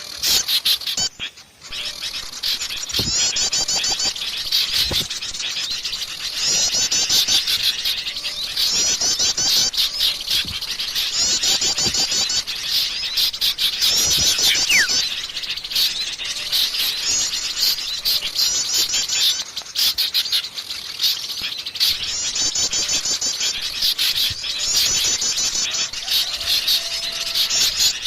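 A dense chorus of many small songbirds chirping and twittering, with a rapid high trill repeating every two to three seconds. This is a mixed bird-lure call recording of small birds such as sooty-headed bulbuls.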